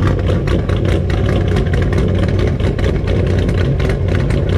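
Car engine idling steadily, with a deep even hum.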